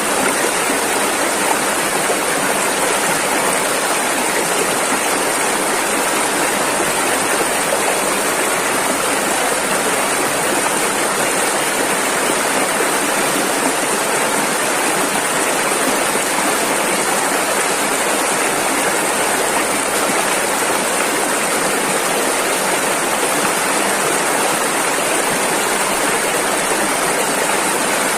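Rushing river water: a steady, unbroken rush of fast-flowing rapids, bright and hissy, with little deep rumble.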